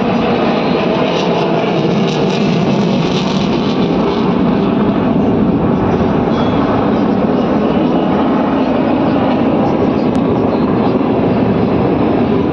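Aircraft engine noise from a flypast, a steady loud rumble, with crowd voices underneath.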